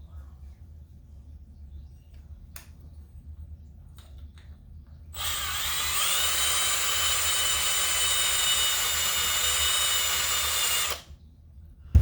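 Electric drill cutting aluminium out of a model engine's fan flywheel to lighten its heavy side for balancing. It runs for about six seconds, its whine rising as it spins up, then holding steady before stopping abruptly. A few faint handling clicks come before it.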